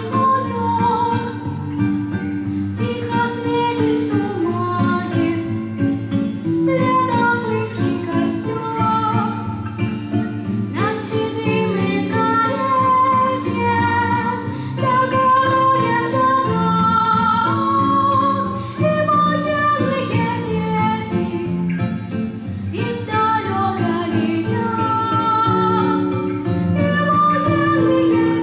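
Music: a song sung by a young female voice over an accompaniment with guitar.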